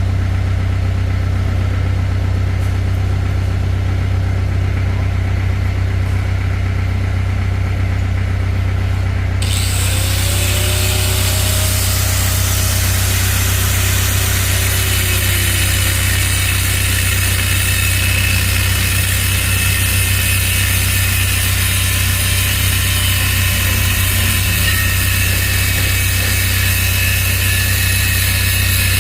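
An engine running steadily with a strong low drone; about nine seconds in, a steady hiss joins it.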